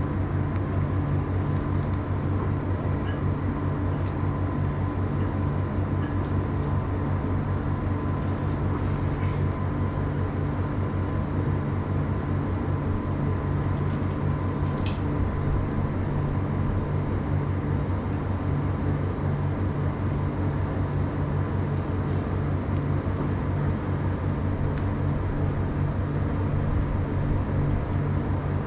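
Steady mechanical hum with several fixed low tones and a faint high whine, unchanging throughout, with a few faint light clicks now and then.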